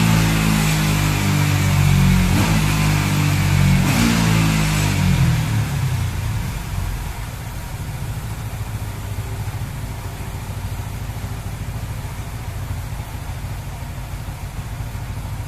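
Yamaha R15 V3's 155 cc single-cylinder engine, fitted with an aftermarket camshaft and a Juken 5 Plus ECU, running loud at high revs on a dyno. About five seconds in, the revs fall away and it settles to a quieter, steady idle.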